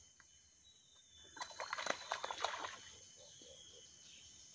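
A brief flurry of splashing and crackling water, about a second and a half long, over a steady high insect drone.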